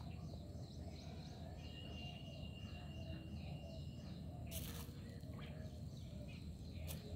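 Outdoor ambience with small birds chirping in quick repeated calls and one high thin whistle held for a couple of seconds, over a steady low rumble. A short burst of noise about four and a half seconds in and a sharp click near the end.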